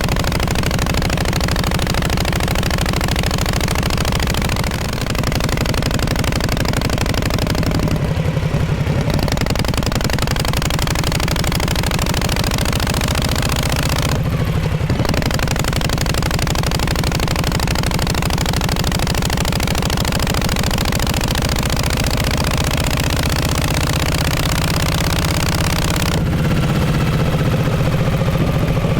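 1948 Harley-Davidson Panhead V-twin running with its exhaust loud and steady. The note drops off briefly twice, about eight and fourteen seconds in, and changes again near the end.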